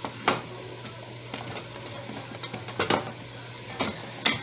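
Vegetables sizzling in butter as they sauté in a pot, with a spoon scraping against the pot a few times as they are stirred.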